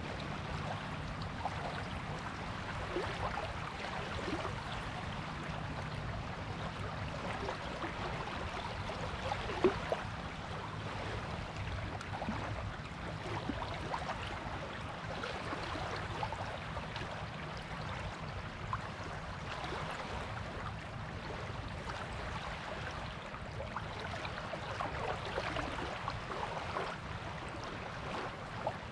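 Gentle waves washing on a beach, a steady fizzing wash of water, with one brief sharp click about ten seconds in.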